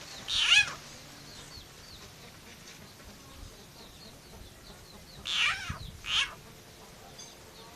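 A frog giving loud distress screams while a snake eats it. There are three cries, one near the start and two close together later, against faint high chirping.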